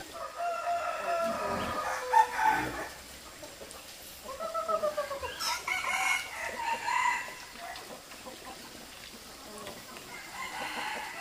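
Rooster crowing several times, each crow a drawn-out call of a second or two, a few seconds apart.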